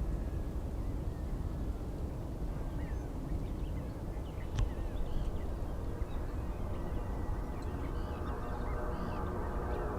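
Outdoor airport ambience: a steady low rumble with scattered bird calls, and a sharp click about halfway through. Near the end an aircraft engine's steady hum grows louder.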